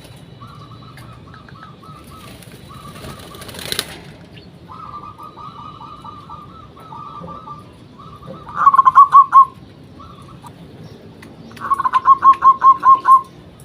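Zebra doves (local perkutut) cooing, with fainter strings of rapid coo notes running throughout. Two loud, close coo phrases stand out, each a quick run of staccato notes: one about eight and a half seconds in, and one near the end.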